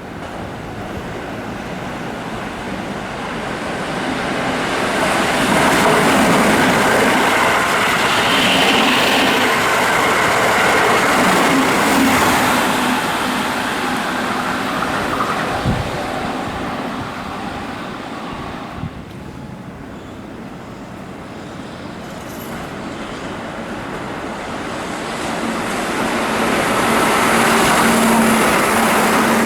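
Keihan electric train passing at speed: the running noise builds over the first few seconds, holds with a single sharp knock partway through, and fades about two-thirds of the way in. A second train approaches near the end, louder again with a steady motor hum.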